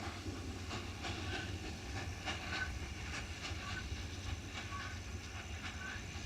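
Steam train rolling, with wheels clicking irregularly over the track and short high squeaks over a steady low rumble.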